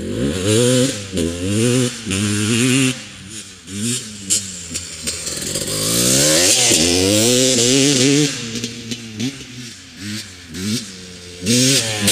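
Single-cylinder two-stroke engine of a 1996 Honda CR250R motocross bike revving hard in quick repeated blips, with a longer pull up to high revs about halfway through before dropping back into short blips.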